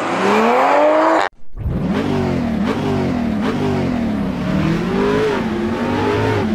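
Sports car engine revving hard. A rising note cuts off abruptly about a second in, then the car accelerates through the gears, the pitch climbing and dropping back at each shift several times.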